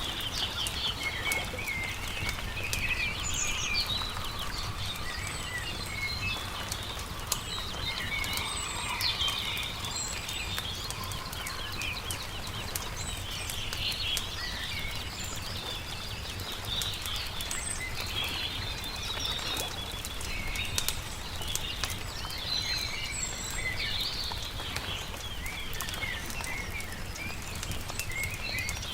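Songbirds chirping and singing continuously, several calls overlapping, over the scattered pops and crackles of a burning campfire.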